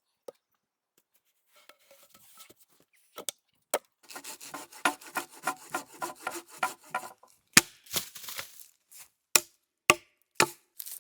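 Wood being worked by hand with a tool. A quick run of regular scraping strokes, about four a second for some three seconds, is followed by a few sharp, separate knocks.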